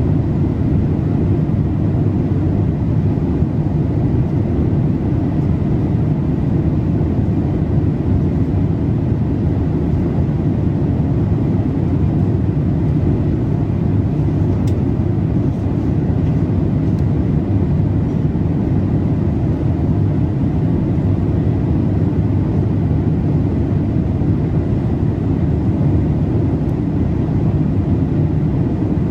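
Boeing 787-8 passenger cabin in flight: a steady, deep rumble of airflow and engine noise with no change in level, and a faint high hum running through it.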